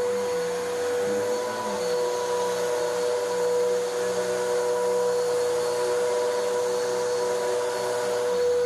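Vacuum cleaner running steadily on carpet, a constant motor whine with a strong steady tone over rushing suction, pulling dry soil out of the pile.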